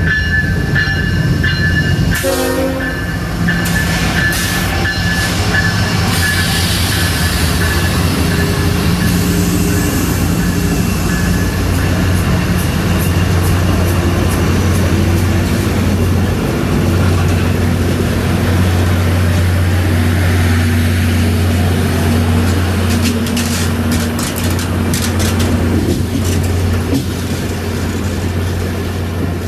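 Diesel-hauled CSX Santa Train running by: a loud, steady low locomotive engine drone with rail and car noise, and scattered clicks from the wheels on the track.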